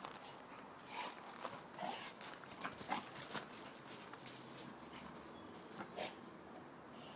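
A dog moving and snapping about, making a run of short clicks and knocks, densest from about one to three and a half seconds in, with a few brief higher sounds among them and one more knock near the end.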